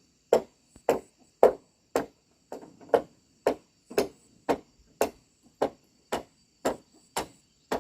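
A tool striking wood in a steady rhythm, about two blows a second, each a sharp knock with a short ring.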